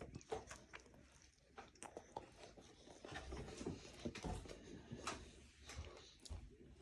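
Faint, scattered clicks and taps of a toddler handling food at the table, with a little quiet chewing.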